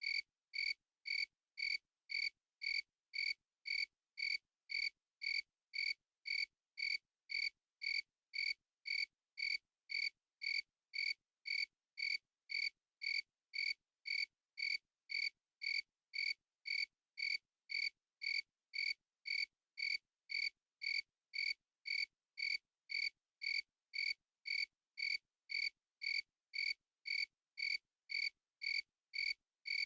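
A single cricket chirping in an unbroken, even rhythm, about two short chirps a second, each the same pitch and length, with silence between.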